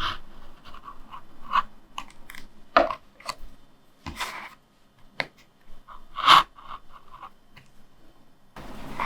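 Hand lino cutter gouging into a linoleum block: short, crunchy scraping strokes at an uneven pace. The loudest strokes come about three, four and six seconds in. A steady background hiss comes in near the end.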